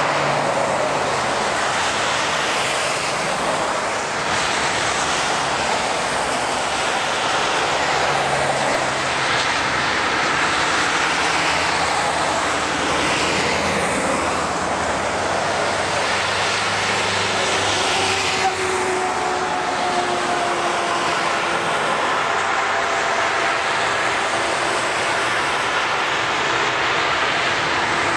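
Highway traffic passing on a snowy interstate: a steady hiss of tyres, swelling as vehicles go by one after another. About two-thirds of the way through, a passing vehicle's engine drone sounds, its pitch falling slightly.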